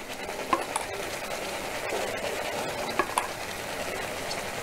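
Thick jackfruit paste sizzling in ghee in a metal kadai as jaggery syrup is poured in. A few light clicks of utensils against the pan come about half a second in and again about three seconds in.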